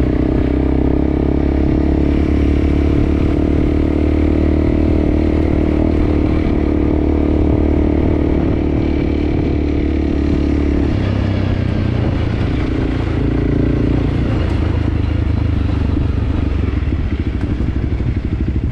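Enduro motorcycle engine running steadily while riding a trail; the engine note drops and changes about eleven seconds in.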